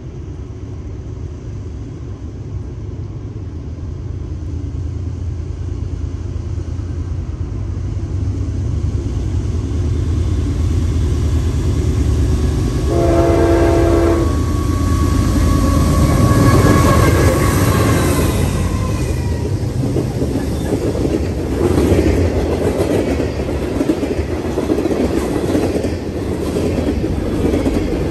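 Diesel freight train approaching, its low engine rumble growing steadily louder; about halfway through the locomotive sounds its horn in one blast of about a second. The locomotives then pass and the freight cars roll by with a rhythmic clickety-clack of wheels on the rail joints.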